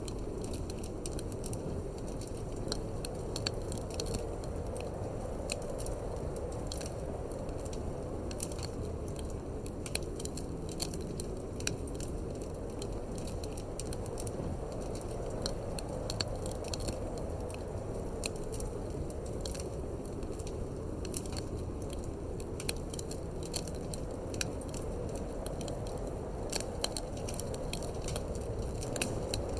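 Wood fire in a fireplace crackling, with frequent irregular sharp pops, over a steady low rush of wind.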